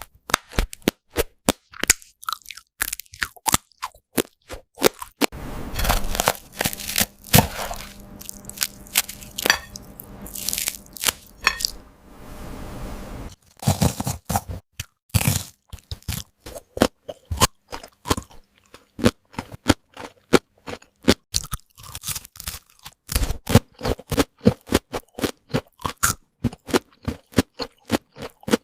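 Close-miked crunching, biting and chewing of crispy fried chicken breading: rapid runs of sharp crackles, with a stretch of denser, continuous crunching through the middle.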